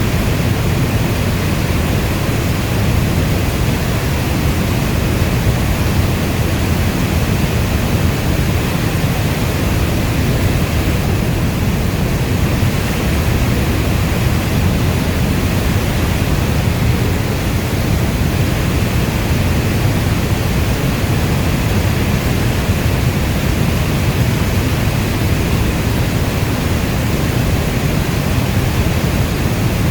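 Heavy rainstorm as a dense, unbroken wash of noise, deep and rumbling like brown noise, with no single drops standing out.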